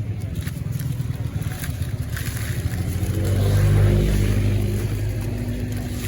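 A road vehicle's engine running, with a steady low hum that grows louder about three seconds in as it works harder or comes closer, then eases slightly.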